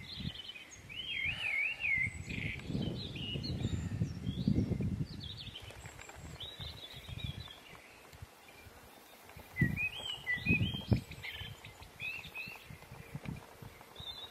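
Small birds chirping and giving short wavering trills, one after another, over low gusts of wind rumbling on the microphone.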